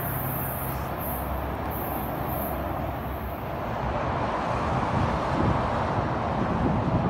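Tri-Rail commuter train's diesel locomotive approaching, a low steady engine hum under a high hiss. About four seconds in the sound cuts to a louder, uneven rumble.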